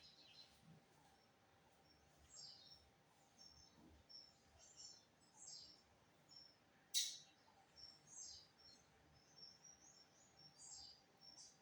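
Faint, scattered high chirps of small songbirds, with one sharper, louder note about seven seconds in.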